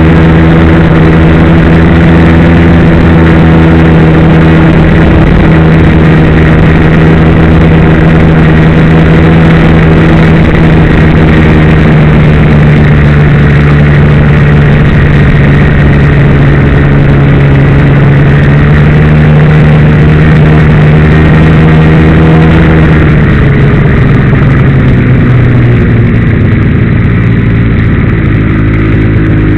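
Ski-Doo Blizzard MX snowmobile's two-stroke engine running steadily and loud close to the microphone; its pitch drops a little about three quarters of the way through.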